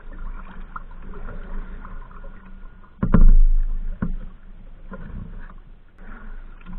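Kayak out on the river: paddle strokes and water splashing against the boat, with a louder knock and low rumble about three seconds in and a sharper knock a second later.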